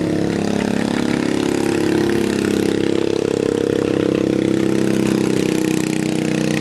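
An engine idling steadily with a fast, even pulsing beat.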